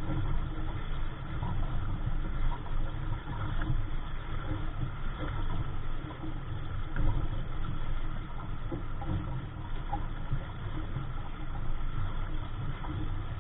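Wind buffeting the microphone aboard a small sailboat, an uneven low rumble that rises and falls with the gusts.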